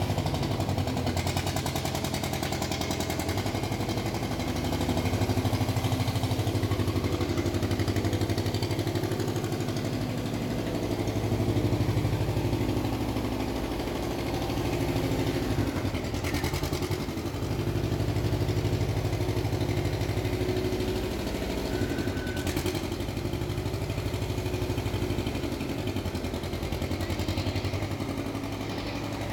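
Semi-truck's diesel engine running with a steady low drone that swells and eases a few times.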